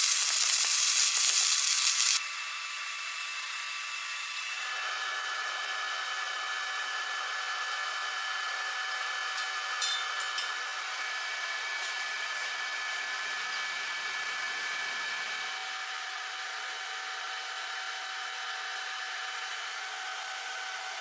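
Stick welding arc crackling loudly for about two seconds, then cutting off suddenly, leaving a steady whirring hum with several steady tones.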